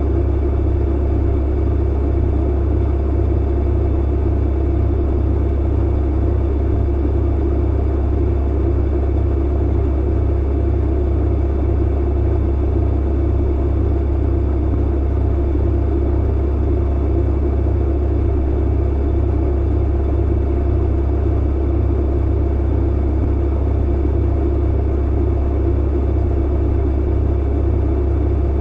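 Tumble clothes dryer running: a steady low rumble and hum that does not change.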